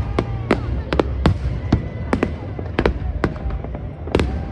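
Fireworks going off: an irregular run of sharp bangs and cracks, about three a second, over a low rumble.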